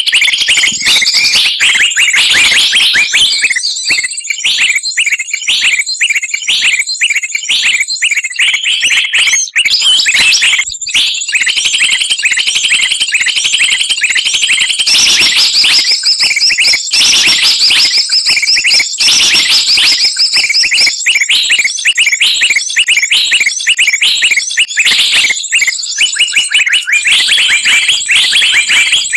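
Dense, continuous chorus of many small songbirds chattering and chirping at once, rapid high-pitched calls overlapping without pause: a recorded bird-lure track for trapping wild birds.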